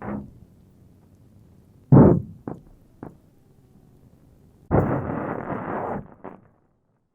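Frozen lake ice cracking as it expands and contracts in the sun's warmth. Sudden cracks and booms, the loudest about two seconds in, a few small clicks after it, then a longer rumbling crack lasting about a second past the middle, before the sound cuts to silence.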